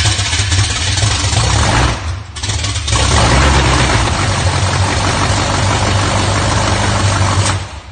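Carburetted Holden 304 V8 running loud on its first fire-ups after being fitted. It dips briefly about two seconds in, comes back up, then stops suddenly near the end.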